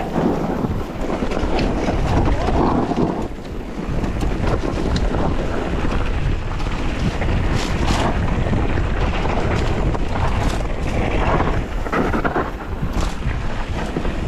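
Wind buffeting an action camera's microphone at speed: a steady, loud rumble with scattered brief crackles.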